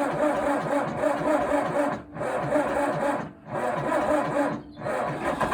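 Massey Ferguson diesel tractor engine being cranked over by its starter motor, a steady whine with an even pulsing rhythm of the compression strokes, broken by three brief pauses in the cranking. It is a hard start after the tractor has stood unused for a while, with a starting-aid spray in the intake, and the engine has not yet caught.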